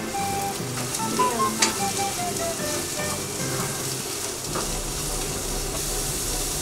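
Julienned carrots sizzling steadily as they stir-fry in oil in a small pan, stirred with chopsticks. A few sharp clicks ring out, the loudest about one and a half seconds in.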